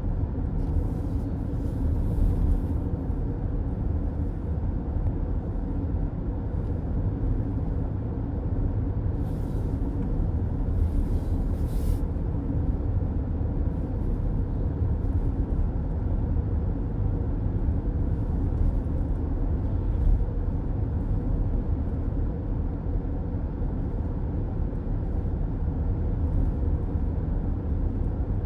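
Steady low road and engine rumble of a moving car, heard from inside the cabin. Two brief rushes of hiss rise over it, about a second in and again around ten seconds in.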